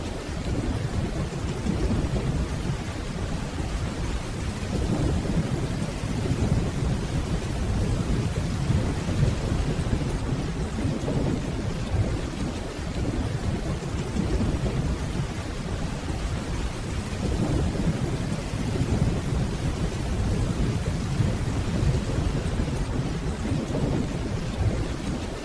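Steady rainfall over a continuous low rumble of distant rolling thunder.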